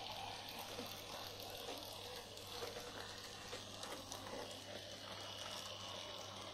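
An older Graham Farish N gauge Class 08 shunter model running on the layout: a faint steady low motor hum and the rolling noise of small wheels on track, with occasional light clicks.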